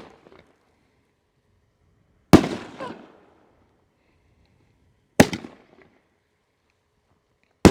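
3-inch aerial firework shells from a nine-on-a-board (NOAB) rack going off one at a time: three sharp bangs about two and a half seconds apart, each with a short echoing tail.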